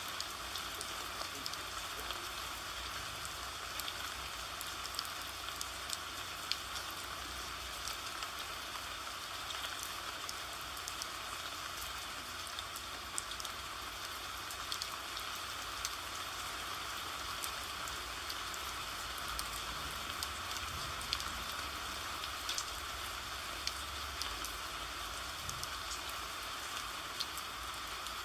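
Steady rain falling, an even hiss of rain with many small scattered drop ticks throughout.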